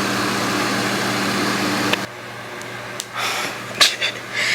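A steady mechanical hum and hiss, the kind a fan or ventilation unit makes, cuts off abruptly about two seconds in. Quieter background follows, with a few short knocks near the end.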